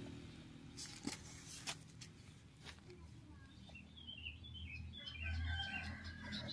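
Faint bird chirps: a quick run of short twittering notes about four to five seconds in, after a few soft clicks. A low hum swells up near the end.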